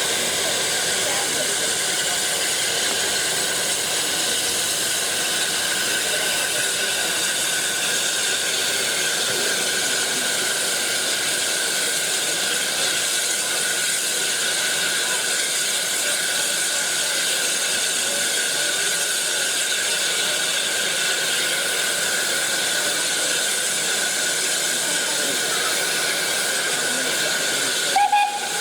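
Steam hissing steadily and loudly from a steam locomotive, like steam being vented. Just before the end comes a brief knock.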